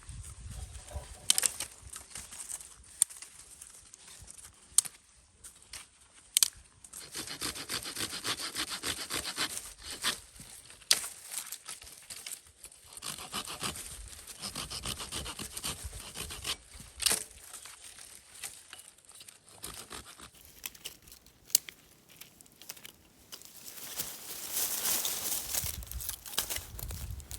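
Folding saw cutting through wood by hand, in bouts of rasping strokes a few seconds long, with a few sharp knocks of wood between them.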